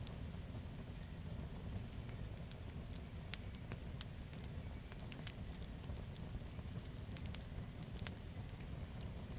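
Campfire burning, with frequent sharp crackles and pops at irregular intervals over a low, steady rumble.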